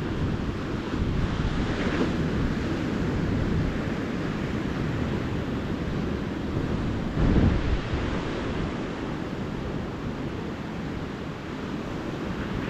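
Ocean surf washing steadily on a beach, with wind on the microphone; a brief louder low rumble about seven seconds in.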